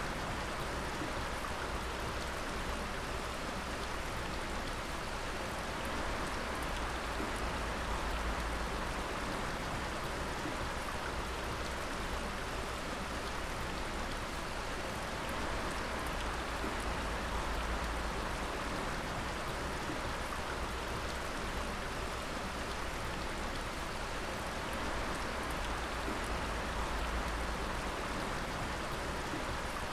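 Water dripping and splashing steadily onto wet ground or water, a dense patter like rain, over a constant rush of running water.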